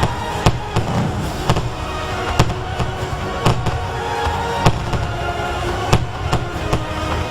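Fireworks going off, a sharp bang about once a second, over music with a steady low rumble.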